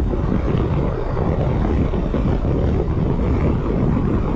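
Triumph Tiger 1200 GT Explorer under way: the inline-three engine running steadily under a haze of wind and road noise on the rider's camera microphone.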